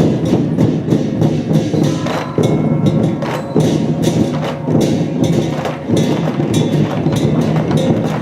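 Lion-dance percussion ensemble playing the opening drumming: a big drum struck in a dense, continuous run, with cymbals clashing over it.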